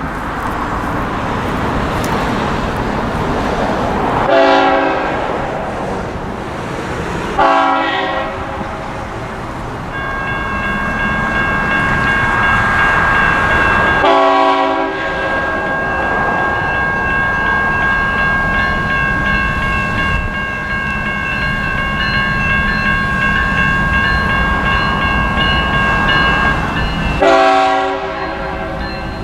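A freight train rumbling by at close range, its locomotive horn sounding four short blasts spread through the passage. Through the middle stretch a steady high-pitched ringing tone is held over the rumble.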